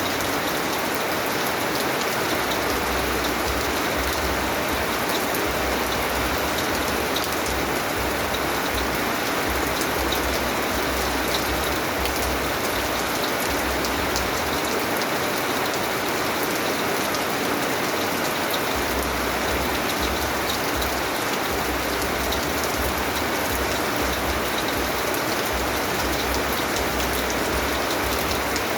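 Steady rain falling, an even hiss with many small drop ticks and no lull.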